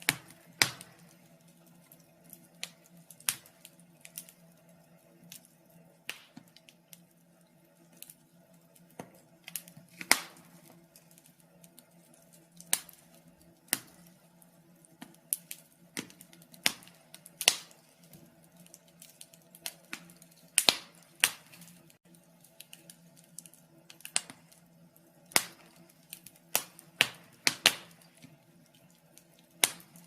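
Wood fire in a fireplace crackling, with irregular sharp pops and snaps, some louder than others, over a faint steady low hum.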